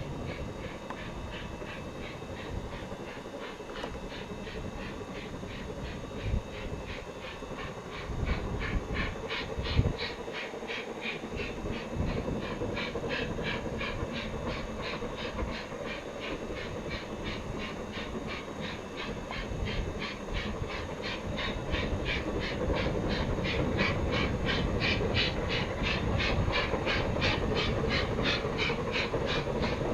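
Steam locomotive exhaust beats, an even puffing at about four beats a second that grows slowly louder, over a low rumble.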